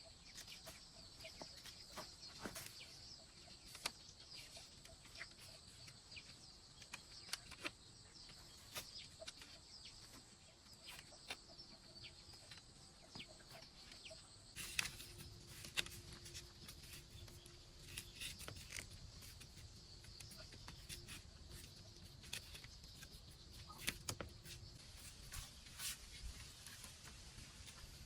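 Faint, scattered clicks and knocks at an irregular pace over a steady high hiss, with a few louder knocks in the second half.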